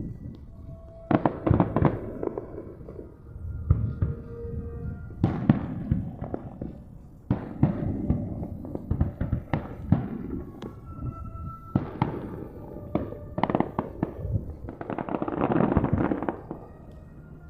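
Aerial fireworks bursting: sharp booms at irregular intervals of a second or two, with a dense stretch of crackling near the end.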